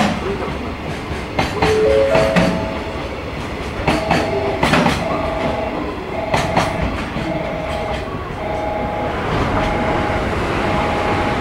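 Freight train's container wagons rolling past, the wheels clicking over rail joints, with the clicks thinning out as the last wagons go by about six seconds in. From about four seconds in, a two-note tone repeats roughly once a second.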